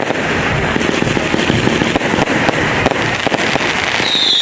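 Aerial fireworks crackling densely: rapid, overlapping pops and crackles from bursting shells. Near the end a high whistle starts and drops slightly in pitch.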